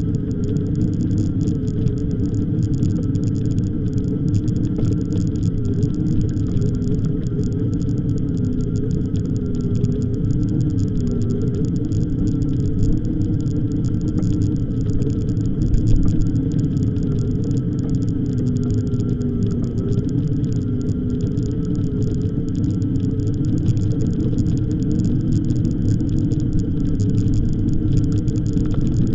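An e-bike being ridden: a steady rumble of wind and tyres, with a faint motor whine that wavers slightly in pitch.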